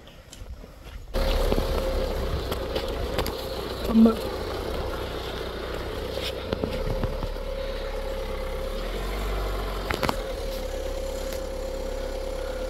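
Small car engine running steadily at low speed, with a constant low rumble and a steady hum, coming in suddenly about a second in. A brief loud blip comes about four seconds in, and a sharp click near the end.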